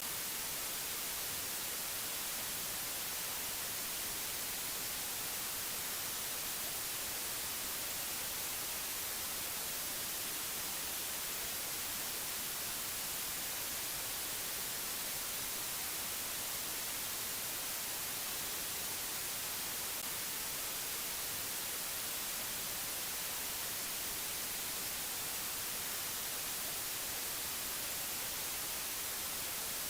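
Steady white-noise hiss, brightest in the treble, even and unchanging with no tones or clicks.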